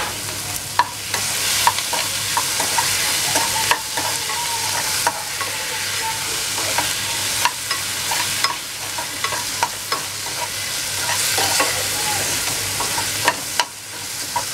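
Onion, capsicum and chilli paste sizzling in a pan over a high gas flame while a metal spoon stirs them, with irregular clinks and scrapes of the spoon against the pan.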